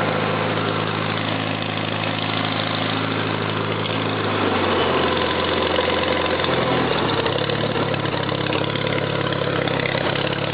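1952 Farmall Cub's four-cylinder flathead engine idling just after a cold start. Its steady note wavers about four and a half seconds in and settles again about two seconds later.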